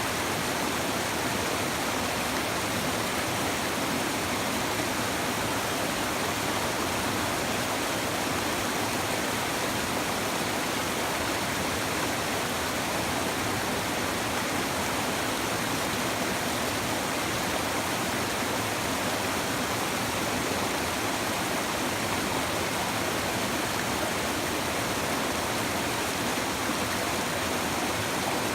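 River water babbling and rushing, a steady even flow with no breaks.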